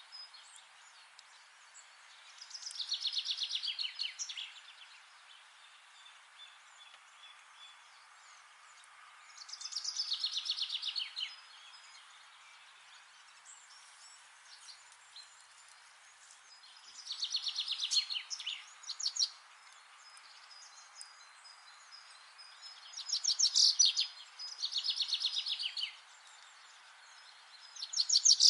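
A songbird singing short, rapid trilled phrases, each about a second or two long, repeated every few seconds over a steady faint background hiss.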